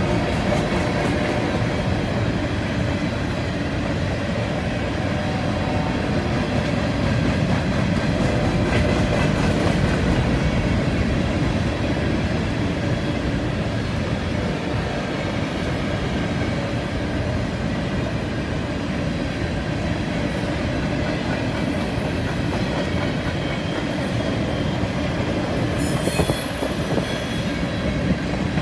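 Covered hopper cars of a long freight train rolling past steadily: wheels rumbling on the rails of a curve, with wheel squeal that grows higher and stronger near the end.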